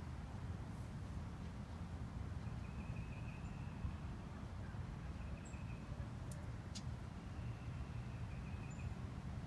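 Outdoor ambience of a steady low rumble, with faint trilling bird calls at one pitch that recur every couple of seconds. A few brief high chirps and two sharp clicks come about six to seven seconds in.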